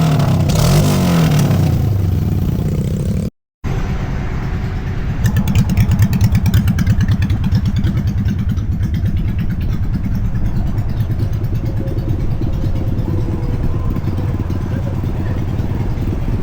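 Small pit bike engine running while riding, its pitch rising and falling with the throttle in the first couple of seconds. After a brief cut it runs on steadily, with some rattle mixed in for a few seconds.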